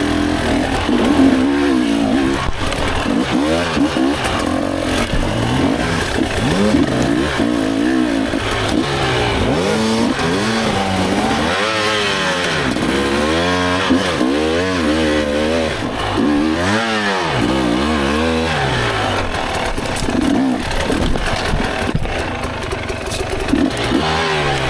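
Dirt bike engine revving up and down over and over as the rider works the throttle in short bursts.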